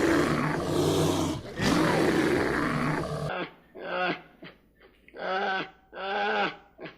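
Farm animal calls: a rough, noisy sound, then after an abrupt cut about three seconds in, four short pitched calls in quick succession.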